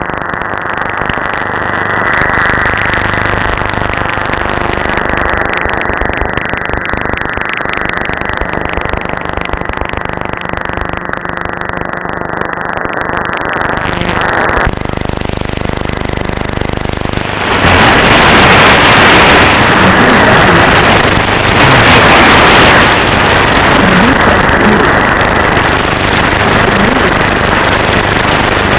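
Shortwave receiver audio from an SDRplay RSP1: a steady hiss and buzz of static and impulse interference, with no station heard. The owner puts the interference down to neighbours' appliances with unfiltered power supplies. Midway the sound changes, and a few seconds later it turns brighter and louder as the audio bandwidth widens.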